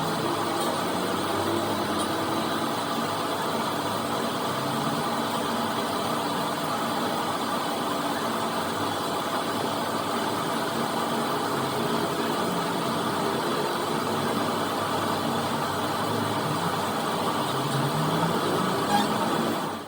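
Steady engine-like mechanical noise running throughout, with a few brief low rises in pitch.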